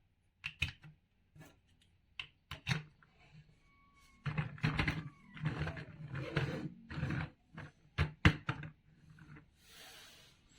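Large plastic toy building blocks being handled and pressed together: a string of irregular clicks and knocks with rustling between them.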